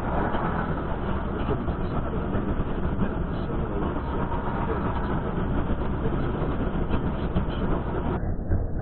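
Steady low rumble of a moving vehicle, with no distinct impact or crash.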